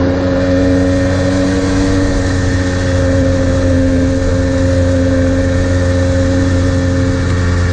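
Kawasaki KDX220R two-stroke dirt bike engine running at a steady cruising throttle, its pitch holding nearly constant.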